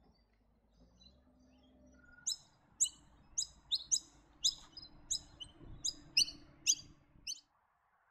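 Noisy miner calling: faint chirps at first, then from about two seconds in a run of about a dozen loud, sharp, falling notes, two to three a second, the kind of call that signals a bird of prey nearby.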